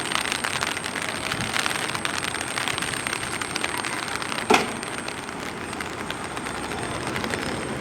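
Train moving along the track beside a platform: a steady rolling rattle of wheels on rail with many small clicks, and one sharp clank about four and a half seconds in.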